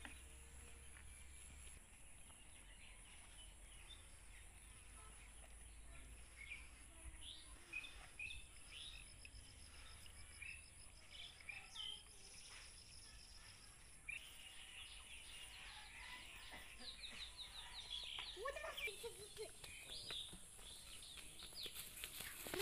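Faint outdoor ambience: scattered short bird chirps and calls, growing busier in the second half, over a steady high hiss.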